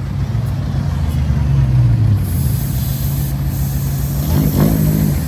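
Car engine running at low revs with a steady low hum, swelling slightly about two seconds in.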